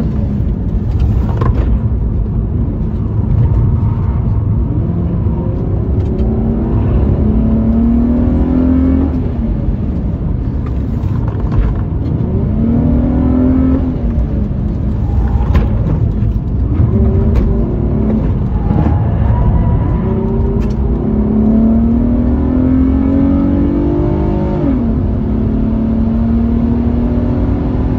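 A 2005 Infiniti G35 coupe's 3.5-litre V6, heard from inside the cabin on a track lap: the engine note climbs repeatedly under acceleration and falls back in between, over steady low road noise.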